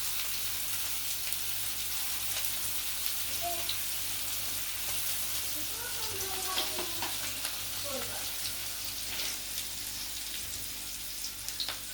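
Chicken shami kabab patties frying: a steady sizzle with scattered light pops.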